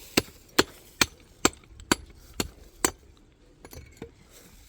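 A steady run of sharp strikes of a tool on a hard surface, about two a second, seven in all, stopping about three seconds in; a few fainter ticks follow.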